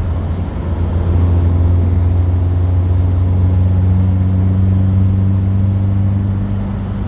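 A classic car's engine and road noise heard from inside the cabin while driving: a steady low drone that gets louder about a second in and then holds level.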